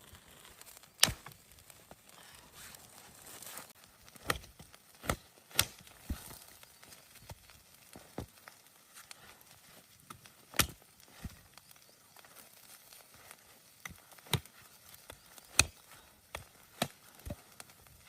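Sharp, separate knocks and cracks at irregular intervals, about a dozen, the loudest about a second in and near the end, over a faint hiss.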